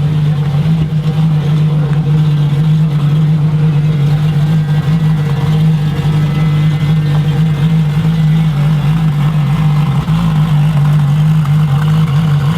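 Car engine idling close by: a steady low drone that holds one pitch, with no revving.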